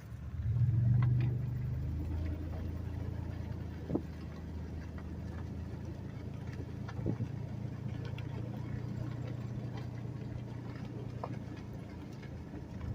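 Vehicle engine running steadily at low revs, a low hum that swells louder about half a second in and then settles, with a few faint clicks.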